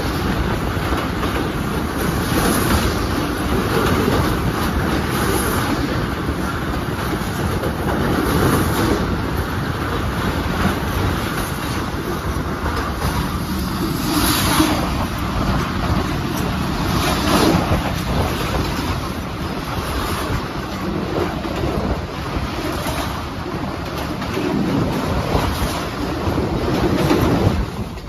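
A passenger train running over the rails of a steel truss bridge, heard from aboard a coach. The wheels clatter steadily, with the clacking swelling every three seconds or so.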